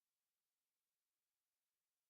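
Near silence: digital silence between narration passages, with no audible sound.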